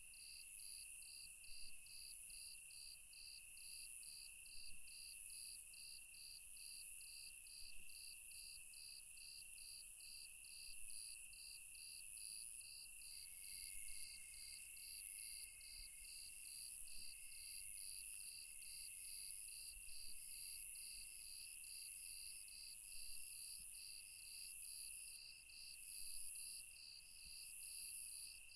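Night insect chorus: crickets chirping in an even, high pulse about twice a second over a continuous high trill and a hiss of other insects. A second, lower trill comes and goes in the middle.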